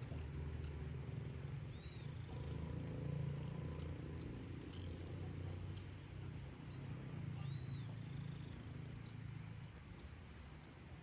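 Countryside evening ambience: a steady low rumble, with a couple of short, faint bird calls about two seconds in and again near the middle.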